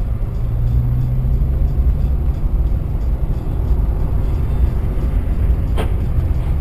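Car driving, a steady low engine and road rumble with a hum in the first couple of seconds, and a single sharp click about six seconds in.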